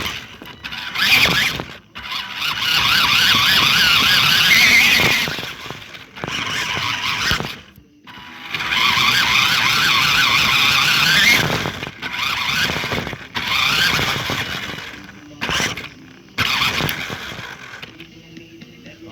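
Electric motor and gearbox of an Adventure Force toy RC Jeep Wrangler whining as it drives, in several bursts of a few seconds each, the pitch wavering up and down with the throttle; it dies down near the end.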